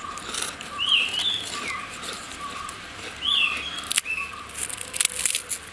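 A songbird calls twice with a short whistled phrase, about two and a half seconds apart, over softer chirps. Sharp dry crackles come as crisp fried vadagam pieces are broken between the fingers.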